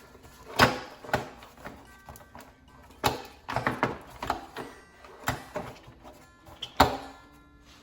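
Plastic engine dust cover being handled and pressed down onto its mounts: a run of irregular knocks and clunks, the loudest near the end. Faint background music comes in partway through.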